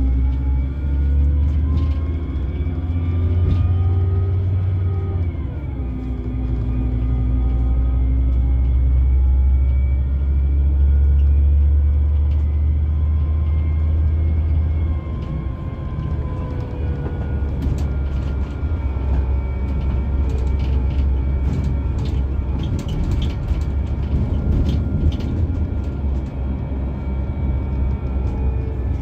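Scania K360EB4 coach's diesel engine pulling through the gears: its pitch rises, drops at a gear change about five seconds in, then climbs again. About fifteen seconds in the engine eases off and light clicks and rattles come through.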